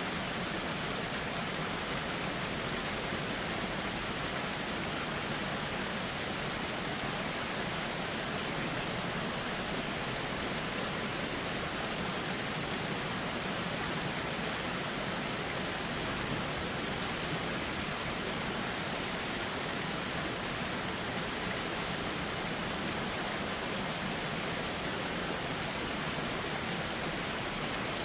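Flowing river water rushing steadily, an even hiss with no breaks or separate splashes.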